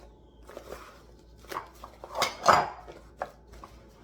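Dishes being handled on a kitchen counter: scattered light clinks and knocks, with a louder clatter of dishware a little after two seconds in.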